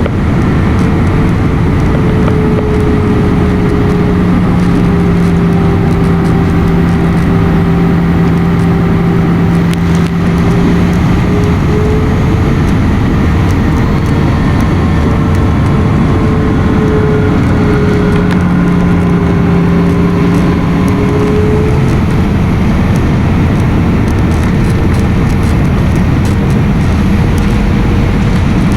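Airliner cabin noise in flight: a loud steady rush of engine and airflow noise, with engine tones that drift slightly up and down in pitch and fade in and out.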